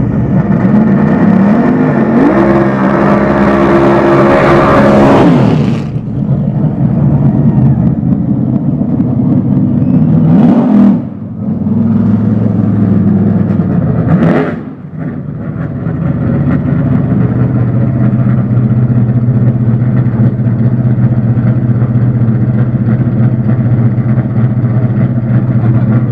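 Open-wheel race car engine revved: a long climb in revs that cuts off sharply about six seconds in, then two shorter blips that drop away, before it settles into a steady idle for the second half.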